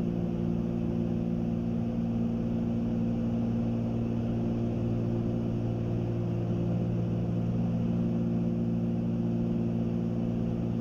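Twin piston engines and propellers of a Cessna 310Q in level cruise, a steady drone with several fixed low tones, heard inside the cabin.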